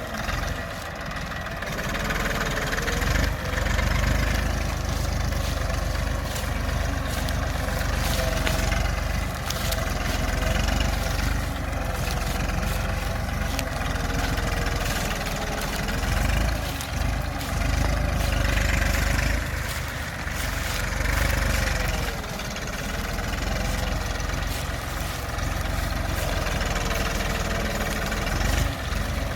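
Tafe 45 DI tractor's three-cylinder diesel engine running steadily under heavy load, pulling about eight tonnes of sugarcane, its note wavering slightly up and down.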